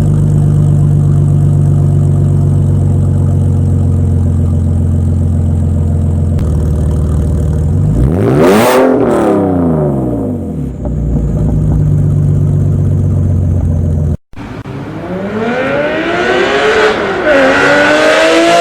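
BMW E46 engine through a muffler-deleted exhaust with headers, idling steadily, then revved once sharply about eight seconds in and falling back to idle. After a brief cut about fourteen seconds in, it is revved again in several rising pulls.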